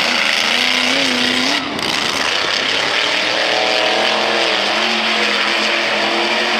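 Monster truck engine revving hard, its pitch swinging up and down repeatedly.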